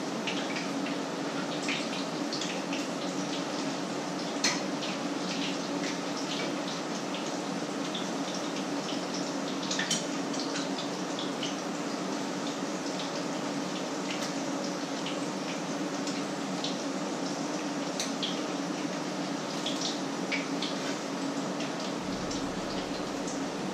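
Food frying in pans on the stove: a steady sizzle full of small crackles and spits, with a couple of sharper clicks about four and ten seconds in, over a low steady hum.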